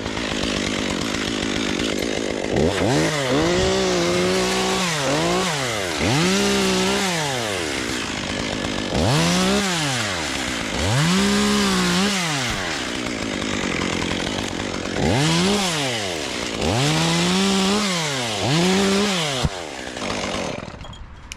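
Two-stroke chainsaw running, revved up and let back down about eight times in a row, then dying away near the end.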